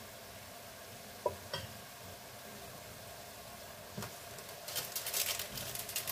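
Bean sprout and vegetable stir-fry sizzling in a frying pan, faint at first, with one light click about a second in. Crackling grows louder from about four and a half seconds in.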